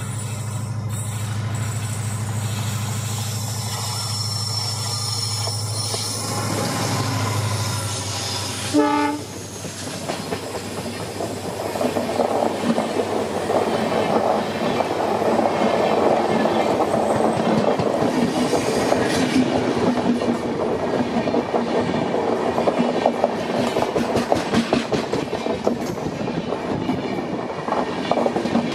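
WDP4D diesel locomotive's EMD two-stroke engine running with a steady low hum as it approaches, then a short horn note as it passes about nine seconds in. After that, LHB passenger coaches roll by with the rhythmic clickety-clack of wheels over the rail joints.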